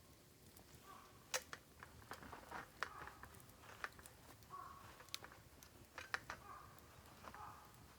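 Bamboo burning in a campfire, crackling with a dozen or so sharp, irregular pops, and short faint whistles in between.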